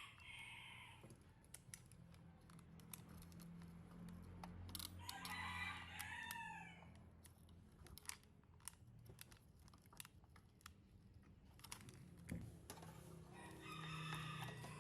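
A rooster crowing once, faintly, about midway, with shorter calls around the start and near the end. Scattered light clicks and taps are heard throughout.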